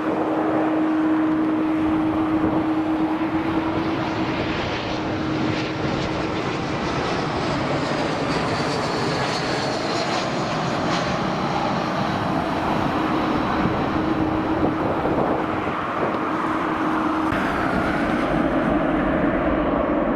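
Airbus A330-300's General Electric CF6-80 turbofan engines running, a steady jet roar with a constant low hum and a faint high whine that falls about halfway through.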